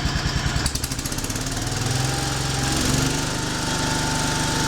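Wheel Horse C-120 garden tractor's 12 hp Kohler single-cylinder engine running: it goes from a slow, pulsing idle to a faster, steadier speed as the throttle is opened about a second in, with a faint whine riding along once it is up to speed.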